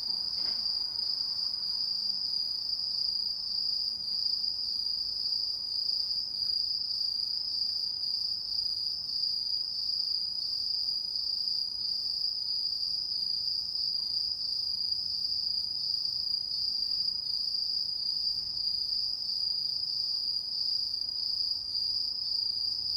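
Autumn insects, crickets, trilling in a steady, unbroken, high-pitched chorus.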